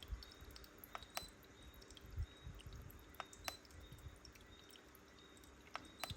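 Rain-cloud humidifier dripping: irregular drops of water falling into its water base, a few louder drips among softer ones, over a faint steady hum.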